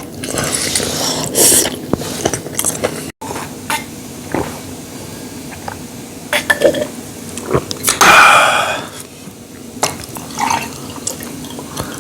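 Eating sounds at a table: scattered clicks of spoons and chopsticks on dishes and wet chewing, with a louder wet, liquid noise about eight seconds in.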